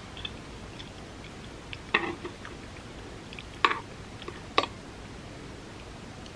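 Close-miked eating sounds of a vegan spam musubi being chewed: soft mouth noise with three short wet smacks, about two seconds in and then twice more a second or so apart.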